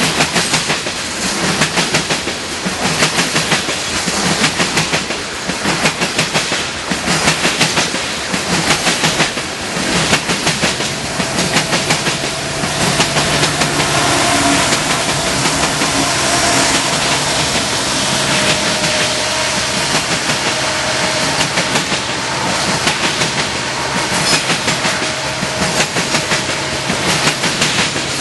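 Loaded coal train rolling past: steel wheels of the coal hoppers clicking in a steady clickety-clack over the rail joints. About halfway through, the mid-train diesel locomotives pass, and the clicking gives way to a steadier engine sound with a humming tone; the hopper clatter returns near the end.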